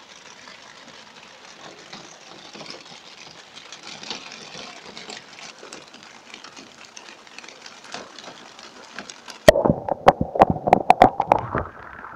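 Heavy rain heard from inside a car: a steady hiss with a patter of drops. About nine seconds in comes a burst of loud knocks and crackles, lasting about two seconds.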